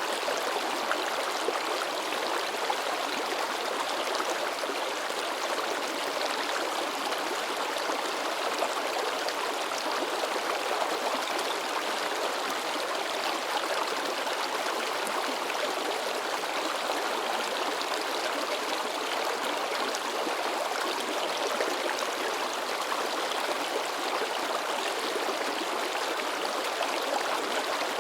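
A shallow river babbling and splashing over rocks, a steady, unbroken rush of water.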